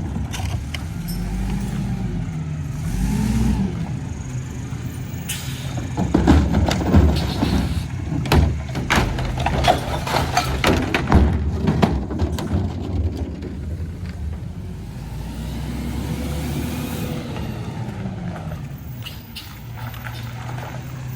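Garbage truck packing a load: the engine revs up and down as the hydraulic packer runs, with a run of clanks and bangs in the middle.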